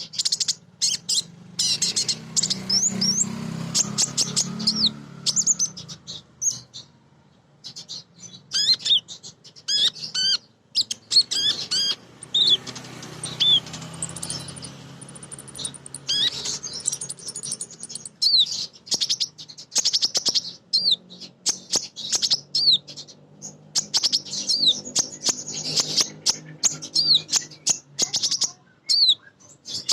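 A female sunbird ('kolibri ninja') calling: rapid runs of short, high, down-sweeping chirps and twitters, broken by brief pauses, over a faint low hum. This is the female's call to males.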